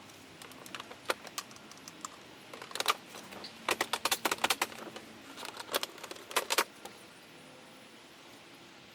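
Plastic interior trim panel being pressed and knocked into place on its clips, giving an irregular run of sharp plastic clicks and taps, some in quick clusters, that stops about seven seconds in.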